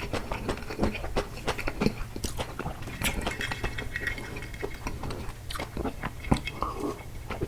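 Close-miked chewing of takoyaki: a steady run of short wet smacks and clicks of a mouth eating.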